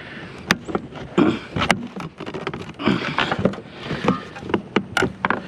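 Sharp clicks, knocks and cracks of a wet scrap item being wrenched apart by hand until a part breaks off at a plastic piece. The strongest snaps come about half a second in, near two seconds and near the end.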